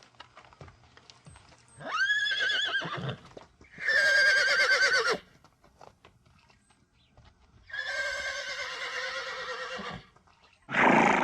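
Horse whinnying: three long neighs with a wavering pitch, a second or two apart, then a short loud call right at the end.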